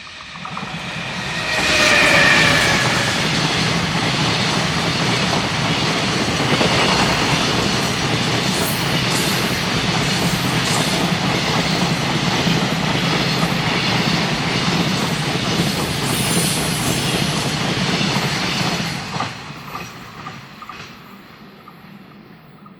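Electric freight train passing close by: a brief whining tone as the locomotive arrives about two seconds in, then a long train of container wagons rolling past with wheels clacking over the rail joints. It fades away after about nineteen seconds.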